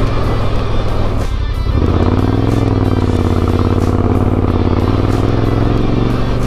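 Motorcycle engine running under way on a dirt road. Its note dips briefly about a second and a half in, then holds steady, with background music over it.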